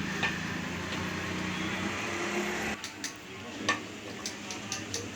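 Wrench clinking against bolts on a 178F single-cylinder diesel engine as they are tightened, with several sharp metal clicks in the second half. A steady low hum runs underneath and cuts off a little past halfway.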